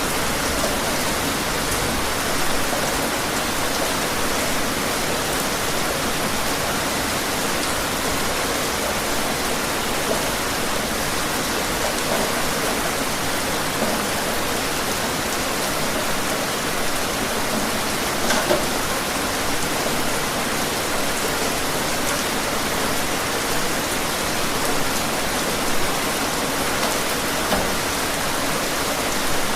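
Steady rain falling outside, a constant hiss with the odd louder drip or splash.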